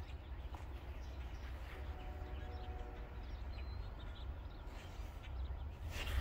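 Outdoor ambience: scattered bird chirps over a steady low rumble, with a brief faint hum of steady tones about two seconds in.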